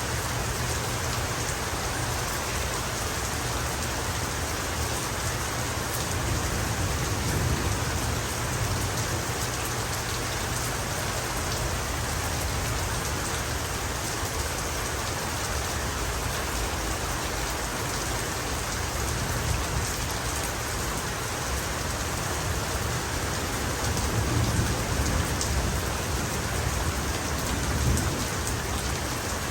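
Heavy rain falling steadily. Low rolls of thunder swell up about seven seconds in and again near the end.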